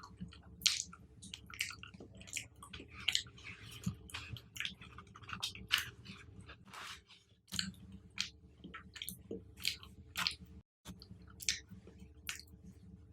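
Close-miked chewing and biting of fruit: wet, irregular smacks and crisp clicks, many to the second, over a steady low hum. The sound cuts out completely for a moment about three quarters of the way through.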